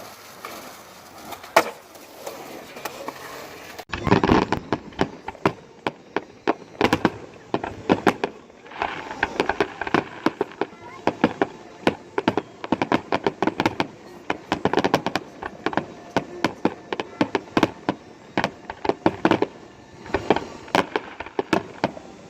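A dense, irregular string of sharp cracks and pops, several a second, starting about four seconds in.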